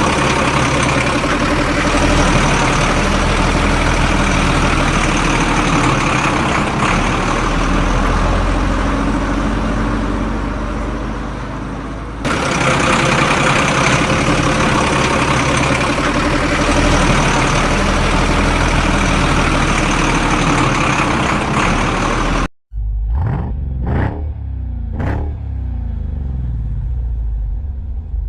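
Vehicle engine sound effects: a dense, steady engine din that cuts off abruptly about 22 seconds in, followed by a few short engine revs rising and falling in pitch.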